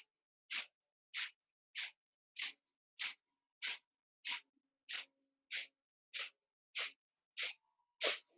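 Kapalabhati breathing: quick, forceful exhalations through the nose, one about every 0.6 seconds in a steady rhythm, each a short sharp puff of air with a passive inhale between them. The last puff is a little stronger.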